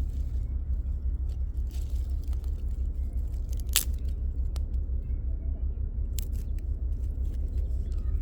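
Small campfire of sticks crackling, with a few sharp pops, the loudest about four seconds in, over a steady low rumble.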